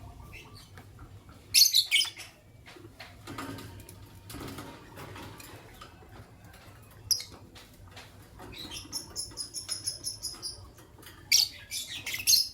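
Lovebirds chirping shrilly: a loud burst of chirps about two seconds in, a single chirp near the middle, a fast run of high repeated chattering notes for a couple of seconds after that, and another loud burst of chirps near the end.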